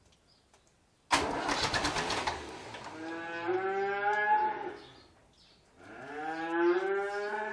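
Cattle mooing: two long, drawn-out moos, the first about three seconds in and the second near the end. About a second in there is a sudden, short burst of rapid clicks.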